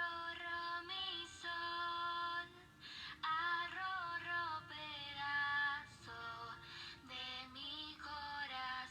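A children's sound book's small speaker playing a Spanish nursery song: a woman's clear singing over a light backing tune, with a slightly thin, electronic tone.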